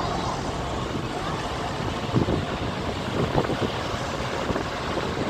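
Truck and tractor engines running steadily as vehicles pass, with a few brief knocks in the middle.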